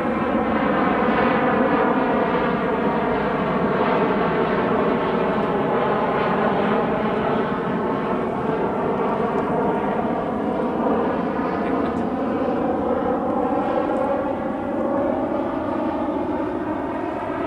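Propeller airplane flying over: a steady engine drone whose pitch drifts slowly down and back up.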